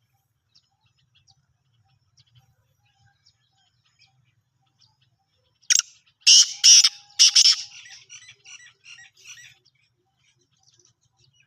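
Black francolin calling about halfway through: a short note, then two or three loud notes, trailing off into a run of quieter, quicker notes. Scattered faint chirps come before it.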